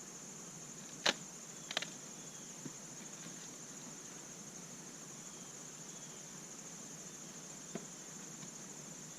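Steady high-pitched insect trilling with a few sharp clicks or knocks: one about a second in, a double one just before two seconds, a faint one near three seconds and one near the end.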